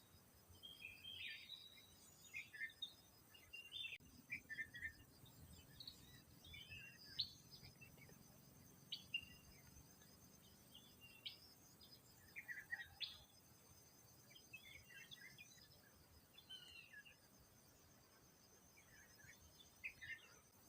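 Wild birds chirping and calling in short, scattered phrases, over a steady, high, pulsing insect trill.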